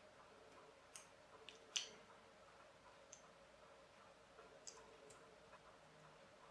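Faint, scattered light clicks and ticks of the tiny plastic parts of an RC micro car being pried and handled during disassembly, about half a dozen in all, the sharpest just under two seconds in, over a faint steady hum.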